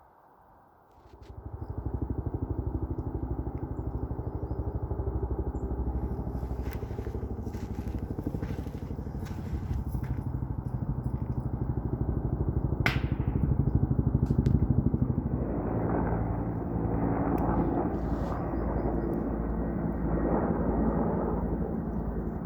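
Helicopter overhead, its engine and rotor running steadily and coming up quickly within the first two seconds.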